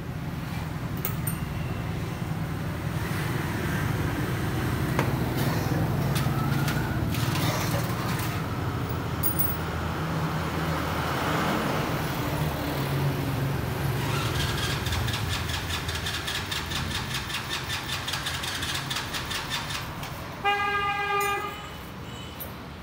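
Road vehicle engine running amid traffic noise, with a single horn honk lasting about a second near the end.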